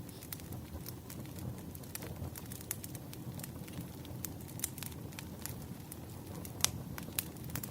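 Firewood burning: a steady low rumble of flames with scattered crackles and snaps, and one louder pop near the end.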